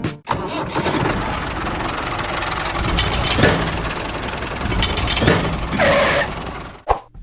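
Small motor-driven homemade model farm machinery, a mini tractor or thresher, running with a steady mechanical rattle and a few sharp clicks.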